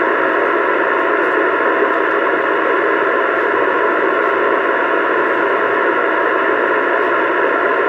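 CB radio receiver hissing with steady open-channel static through its speaker, the channel clear between transmissions.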